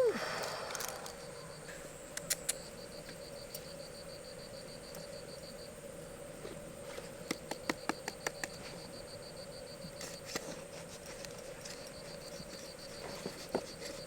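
Insect chirping in a high, evenly pulsed trill that comes in long runs, over a faint steady hum, with scattered sharp clicks.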